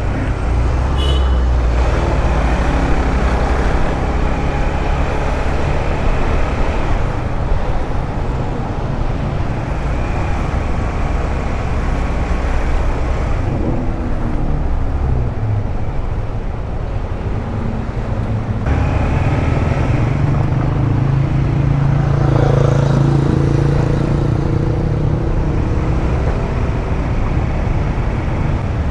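150cc motorcycle engine running while riding through town traffic, its note stepping up and down a few times as the speed changes, over road and traffic noise.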